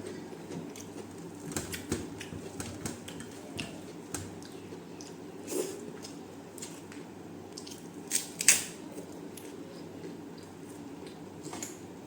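Close-miked chewing and mouth sounds of someone eating, with scattered short sharp clicks and one louder crackle about eight and a half seconds in.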